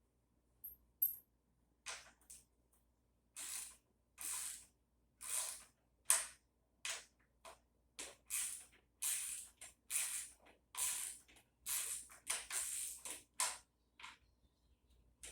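Metal hand-tool work at a tiller engine: about fifteen short rasping strokes in an irregular run, each under half a second, closer together in the second half.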